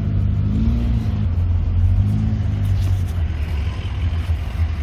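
Honda CR-V engine running under way, its note rising and easing off a couple of times over a heavy low rumble. It has a leaking exhaust, cracked and bent when the car was rolled.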